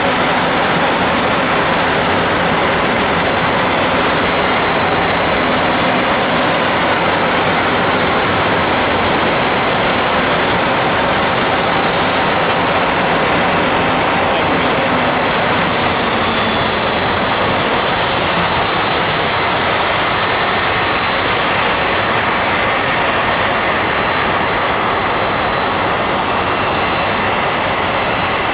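Jet airliner engines running steadily: a loud, even rush with a thin, steady high whine over it.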